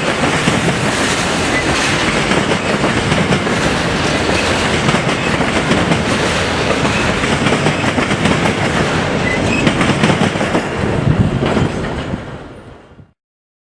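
A train rolling past on the rails, a steady loud rumble full of rapid wheel clicks. It fades out near the end.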